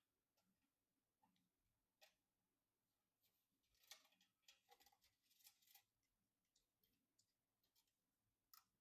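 Faint clicks and short light scrapes of small hardware parts being handled, sparse at first with a cluster of them about four to six seconds in, and one last click near the end.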